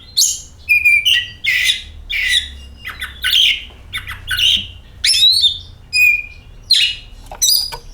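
Oriental magpie-robin (kacer) singing: a fast run of short loud phrases, about one and a half a second, mixing clear whistles with scratchy notes.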